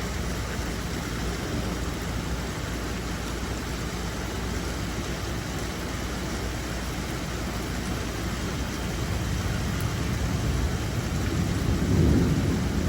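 Steady rain, with a low rumble swelling near the end.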